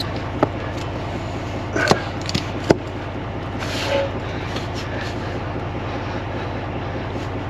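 Truck engine running steadily, with a few sharp knocks over it.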